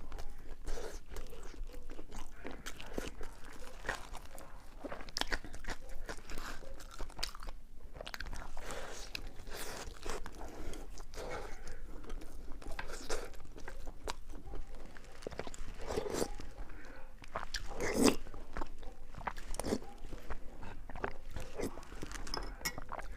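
Close-up eating sounds: a person biting and chewing crisp food, with irregular crunches and the loudest crunch about eighteen seconds in.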